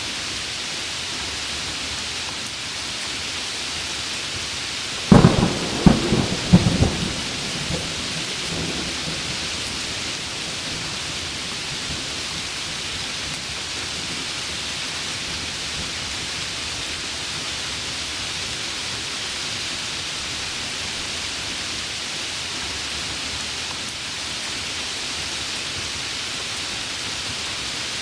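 Heavy rain falling steadily, with a sharp, close thunderclap about five seconds in that cracks several times in quick succession and rumbles away over the next few seconds.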